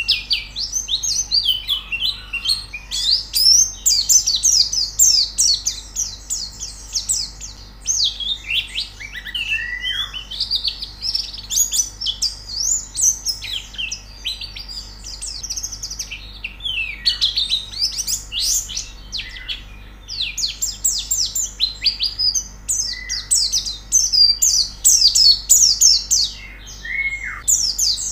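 Pleci (white-eye) singing a fast, unbroken twittering song of high chirps, with a few lower down-slurred notes now and then.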